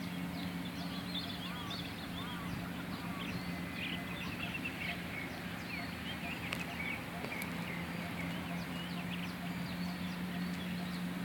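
Many birds chirping and calling in quick, short notes over a steady low hum.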